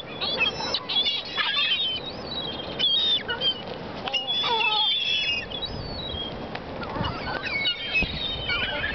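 Many seagulls calling at once, a steady stream of short, high squawks and yelps overlapping one another.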